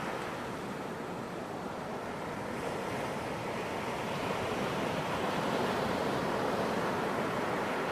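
Ocean surf washing on a beach: a continuous rush of breaking waves that eases slightly and then builds again over a few seconds.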